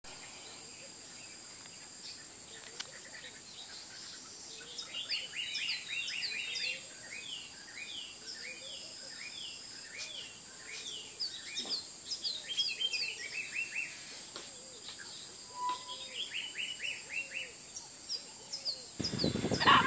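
Birds singing in the bush: repeated runs of short, high, downward-slurred notes, coming in bursts from a few seconds in, over a steady high-pitched hiss. A low rumbling noise comes in just before the end.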